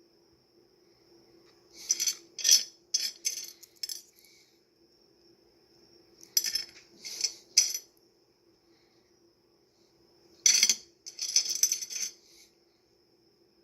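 Pieces of rough opal clinking and rattling against each other and a hard surface, in three short bouts of clatter. A faint steady high-pitched whine and a low hum run underneath.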